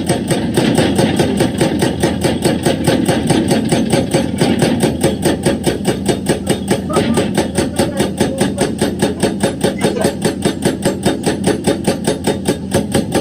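Excavator engine running while its hydraulic breaker hammers rock in a steady run of rapid blows, about four a second.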